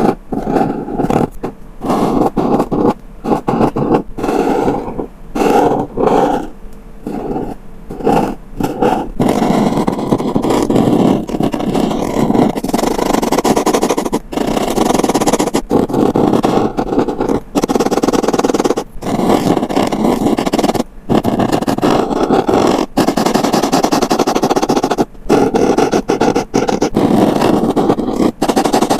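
Acrylic marker pen drawing on paper, close-miked. In the first part the strokes are short with brief gaps; after about nine seconds they turn into longer, more continuous scratchy strokes with only short breaks.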